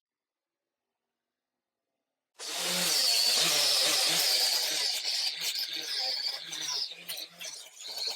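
Silence, then about two seconds in a power tool cuts in abruptly and runs loudly, turning more uneven after a few seconds.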